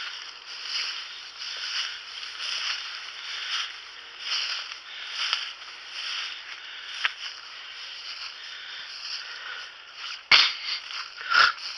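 Footsteps through thick bog cover: boots and clothing brushing through brush in a steady walking rhythm, about one swish a second. Two sharp cracks near the end, like twigs snapping.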